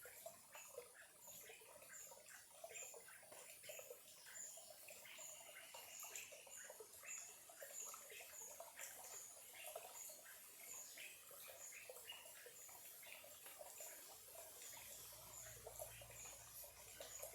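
Small stream trickling faintly over stones, a soft irregular patter of tiny splashes. A short high chirp repeats about once a second above it.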